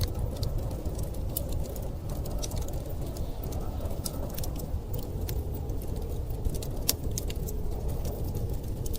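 Wood fire crackling, with irregular sharp pops and snaps scattered over a steady, low rumble of storm wind.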